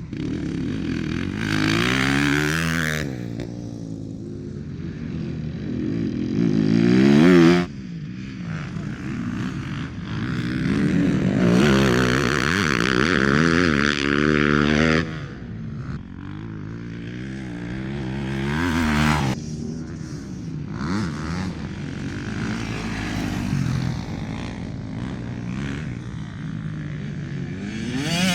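Motocross bikes riding a track, engines revving up and falling back again and again as the riders work the throttle through the gears. The loudest rev, about seven and a half seconds in, cuts off sharply as the throttle is shut.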